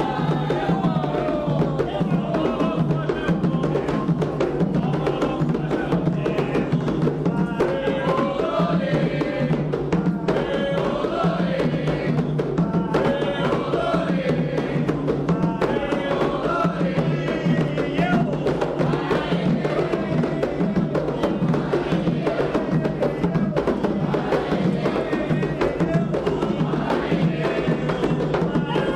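Candomblé ritual music: atabaque hand drums playing a fast, dense rhythm under voices singing a chant to the orixás.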